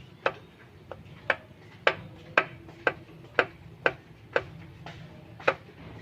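Engine running with a sharp, ticking knock about twice a second, slightly uneven, over a low steady hum. The uploader takes the knock for piston slap.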